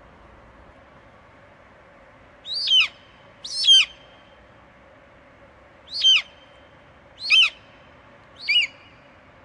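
Eagle screeching: five short, high calls, each falling sharply in pitch, coming in uneven spacing of one to two and a half seconds, over a faint steady hiss.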